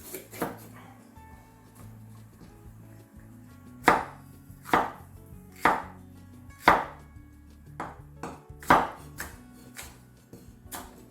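Knife chopping peppers on a chopping board: a series of sharp knocks, the four heaviest about a second apart near the middle, followed by quicker, lighter strokes.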